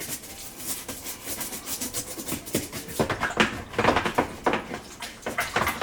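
A brush scrubbing grime off the inside of a dishwasher in quick back-and-forth strokes, faint at first and then about three to four strokes a second from halfway in.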